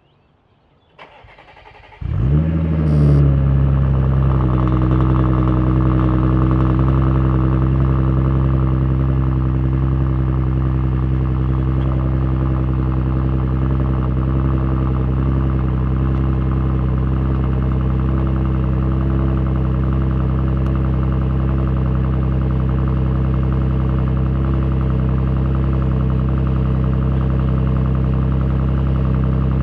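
Cold start of a 2014 Audi B8.5 S4's supercharged 3.0 V6 through a custom exhaust (X-pipe, resonators deleted, Borla mufflers): the starter cranks briefly, the engine catches about two seconds in with a short flare, then settles into a steady, loud idle.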